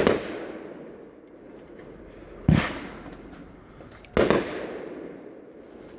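Consumer fireworks cake, the 'Flaming Pizza', firing aerial shots: three loud booms, at the start, about two and a half seconds in and about four seconds in, each trailing off in a long rolling echo.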